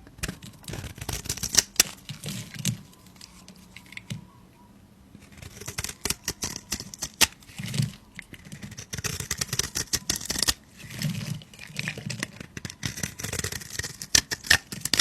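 Knife cutting into a bar of soap: crackly, crumbling scrapes and sharp clicks as the blade goes through, with a brief lull about four seconds in.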